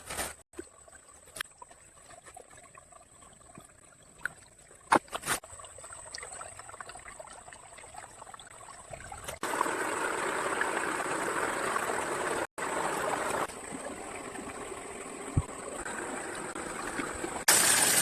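Shallow stream water trickling, soft at first with a few sharp clicks, then running louder and steadier from about halfway on.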